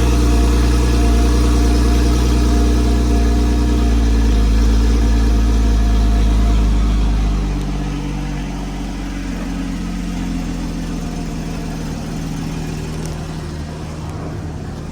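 2014 Porsche Cayman's flat-six engine idling after a cold start; about halfway through the idle steps down and the engine gets quieter as the fast cold-start idle settles.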